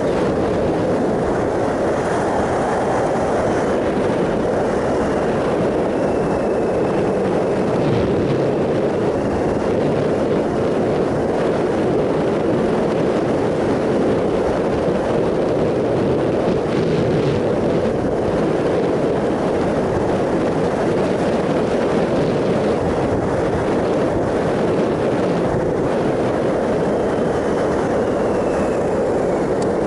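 Triumph Sprint ST 1050's three-cylinder engine running at a steady cruise, under a constant rush of wind and road noise at riding speed.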